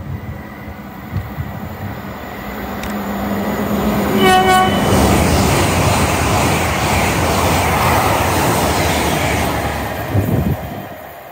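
GWR Class 800-series Intercity Express Train passing through the station at speed, sounding one short horn blast about four seconds in. The rush of the train builds, holds, and fades near the end.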